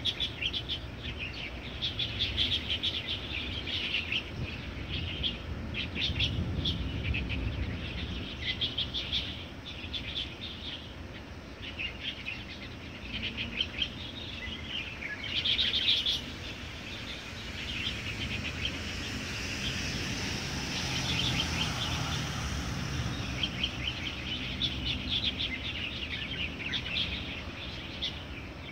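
Many small birds chirping and trilling together in a busy spring chorus, with overlapping calls throughout, over a low steady background rumble.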